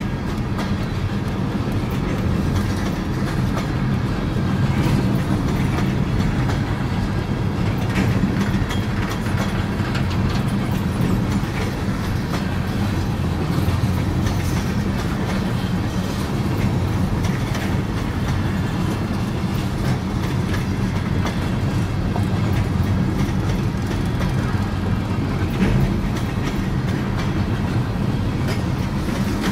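Kansas City Southern de México freight train rolling along the track: a steady low rumble with scattered wheel clicks over the rail joints.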